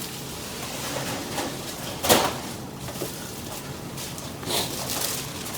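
Two knocks or thumps: a sharp, loud one about two seconds in and a softer one about a second before the end.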